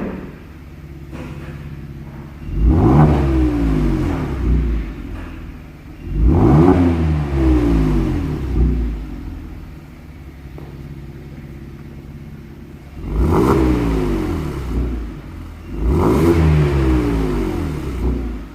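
Kia Stinger 3.3 GT's twin-turbo V6 through an aftermarket Pico variable exhaust, idling and revved four times, each rev rising quickly and then falling back slowly to idle.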